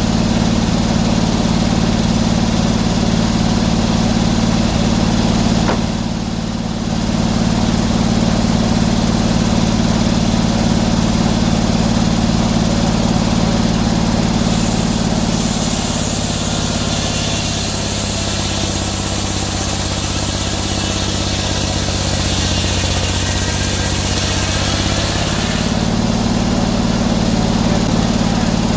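Sawmill engine running steadily. About halfway through, the blade cuts through an oak log for about ten seconds: a hissing, rasping cut is added and the engine's note drops under the load, then recovers.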